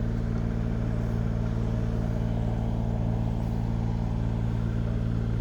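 An engine running steadily at a constant speed, with an even low hum and no revving.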